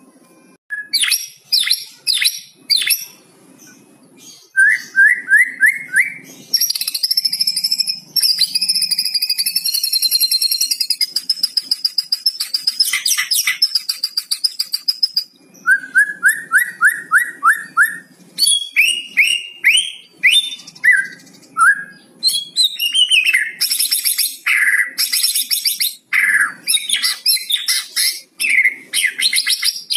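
White-rumped shama singing: a varied run of loud whistles and chirps, with two quick runs of rising notes and a long, fast rattling phrase in the middle, the rattle the 'kretekan' call.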